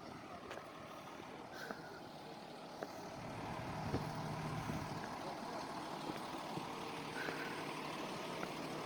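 A motor vehicle's engine running on the street, growing louder about three seconds in and settling into a steady low hum.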